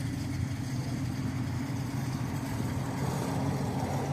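1936 Auburn boat tail's supercharged straight-eight engine running steadily at idle.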